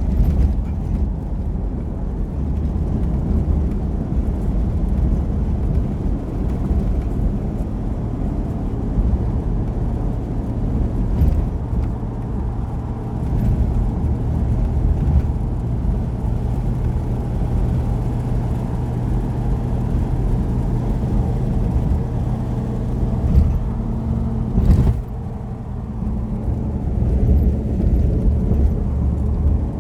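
Motor vehicle engine running steadily with road noise, heard from inside while riding. There is a brief knock about 25 seconds in, after which the engine note shifts.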